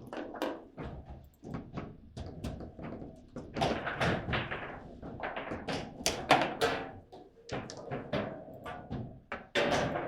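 Table football match in play: a quick, irregular series of hard knocks and clacks as the ball is struck by the rod figures and hits the table walls.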